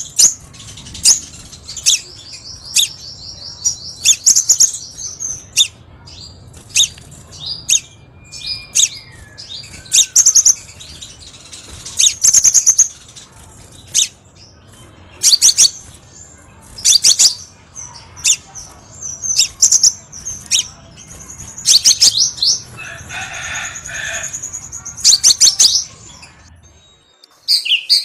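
Crimson sunbird singing: loud, sharp, high chirps repeated about once a second, broken by rapid buzzy trills, over a low steady hum.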